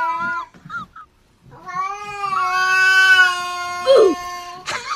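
A domestic cat yowling: one long drawn-out call trails off just after the start, and after a short pause a second steady yowl holds for about three seconds.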